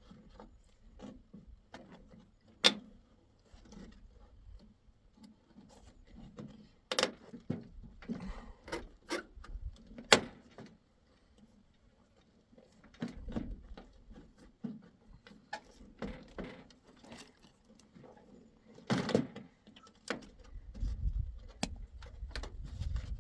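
Irregular knocks, taps and clicks of wood and metal tools being handled during hand repair work on a wooden door. The sharpest single knocks come about 3, 7 and 10 seconds in, and a cluster comes near the end.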